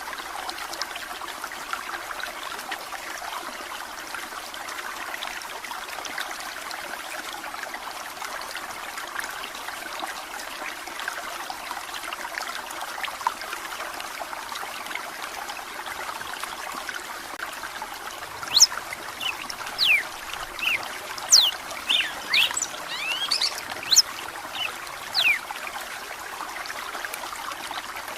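Running water trickling steadily. About two-thirds of the way in, a red-cowled cardinal (galo-de-campina) sings a run of short, sharp, falling whistled notes for several seconds.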